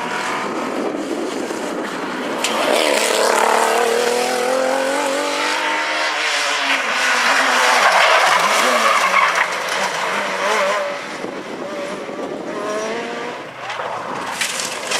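Rally car engine revving hard, its pitch rising and falling through the gears, loudest in the middle and easing off near the end.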